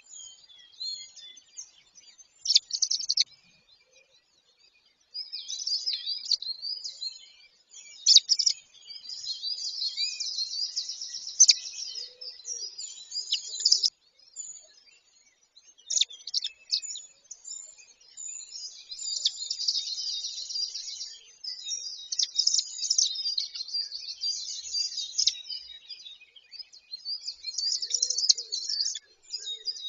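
High-pitched bird chirps and rapid trills, coming in dense runs with brief pauses.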